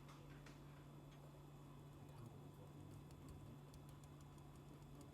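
Near silence: a steady low hum with faint, scattered small ticks, a few slightly stronger in the first second.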